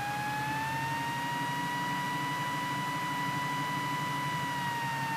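Cessna 172 engine idling, a steady low pulsing with a thin whine over it that rises in pitch over the first two seconds, holds, and dips slightly near the end.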